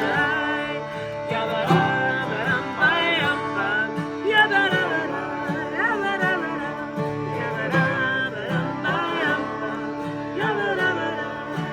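Singing of a nigun, a wordless Jewish melody, over plucked-string accompaniment, with the voice gliding between notes above a steady strummed and picked backing.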